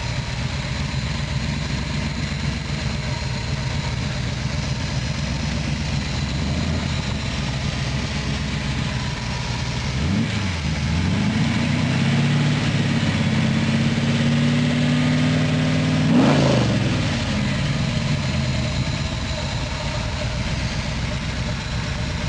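Fuel-injected 427 Windsor Ford V8 crate engine idling, then revved about ten seconds in and held at a raised, steady speed for about six seconds before dropping back to idle.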